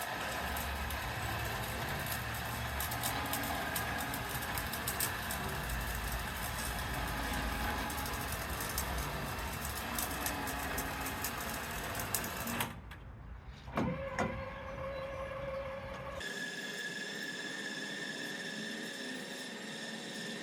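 A motor running steadily with scattered clicks. It cuts off abruptly about thirteen seconds in, a brief swooping tone follows, and from about sixteen seconds a different steady hum with a high whine takes over.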